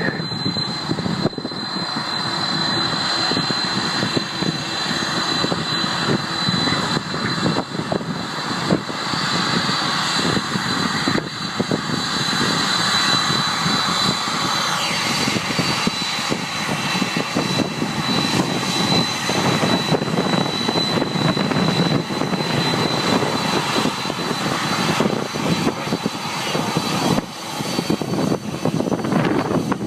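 Boeing 747-400's four jet engines running at high power, a loud steady noise with a high whine held throughout.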